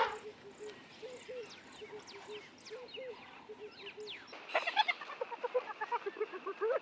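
Birds calling in the open: a string of short, low chirps and several high whistles that sweep steeply down in pitch. About four and a half seconds in, a louder, rapid run of clucking calls starts.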